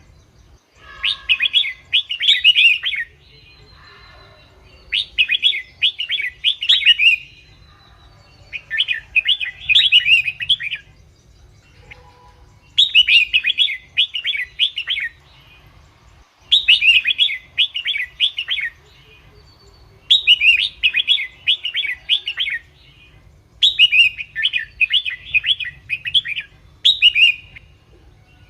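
Red-whiskered bulbul singing: short, bright warbling phrases, each about two seconds long, repeated about every three and a half to four seconds.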